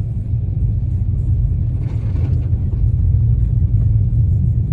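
A 2018 all-wheel-drive car driving at a steady speed on a snow-covered mountain road, heard from inside the cabin. It is a continuous low rumble of tyre, road and engine noise.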